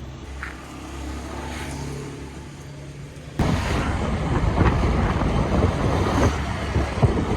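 Vehicle engine and road noise while travelling, with a steady low hum at first, then becoming suddenly much louder and rougher about three and a half seconds in.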